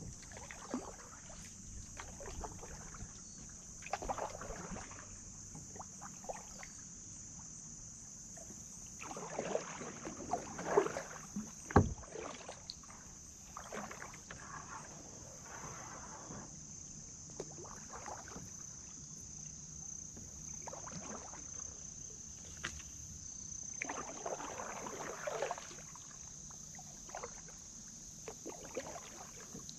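Kayak paddle strokes swishing and splashing in the water every couple of seconds, with one sharp knock about twelve seconds in.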